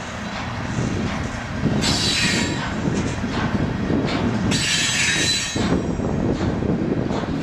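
Freight train of loaded garbage cars rolling past, a steady rumble with wheel clicks over the rail joints. Steel wheels squeal twice, at about two seconds and about four and a half seconds in, each squeal lasting about a second.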